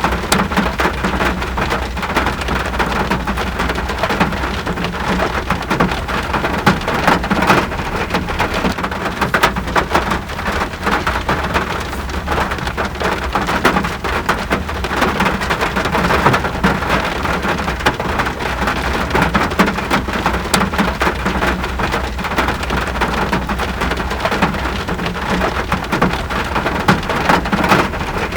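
Steady rain falling, a dense patter of countless drops over a constant low hum, with no break or change.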